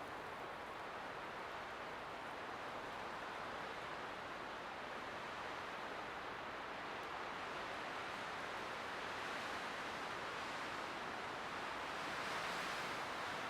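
Light wind blowing steadily as an even hiss, swelling a little near the end.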